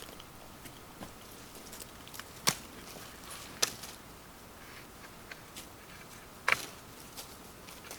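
A few sharp, short knocks, the loudest about two and a half, three and a half and six and a half seconds in, over a faint steady hiss.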